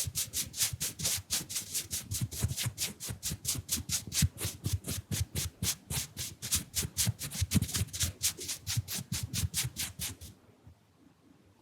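Round makeup brush dabbing and sweeping in fast, even strokes, about five a second, stopping about ten seconds in.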